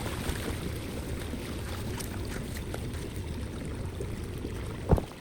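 Water flowing steadily with a low rumble and small splashes, and one sharp thump near the end.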